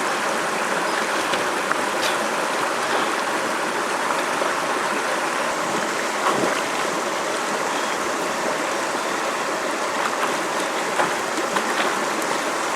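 River water rushing steadily, with a few faint ticks over it.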